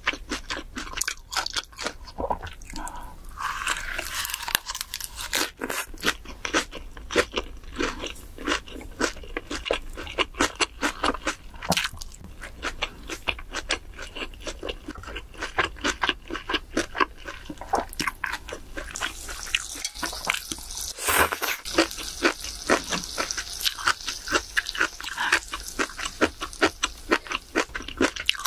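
Close-miked eating sounds: a rapid run of crunchy, wet chews on a mouthful of grilled pork and side dishes.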